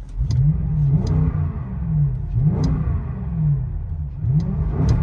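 2005 Cadillac STS's Northstar V8 with one muffler deleted, heard from inside the cabin, revved three times in park. Each rev climbs and falls back toward idle.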